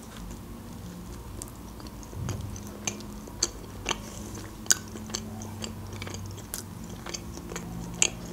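Close-miked chewing of a bite of homemade pizza, with many short, sharp wet mouth clicks and smacks scattered through the chewing.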